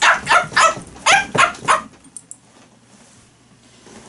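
A man imitating a dog with his voice: a quick run of short barks, about three a second, stopping about two seconds in.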